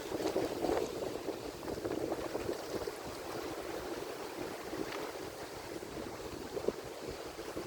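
Ocean surf washing against the shore, a continuous rushing wash that is a little stronger in the first few seconds and then eases.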